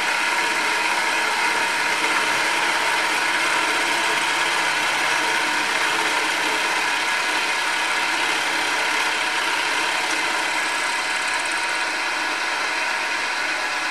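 Hare and Forbes HM48 milling machine running steadily with its 32 mm carbide-insert cutter at about 960 RPM, several steady tones over an even hiss.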